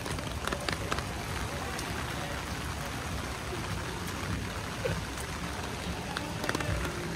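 Steady rain falling, with scattered sharp drips and taps close by.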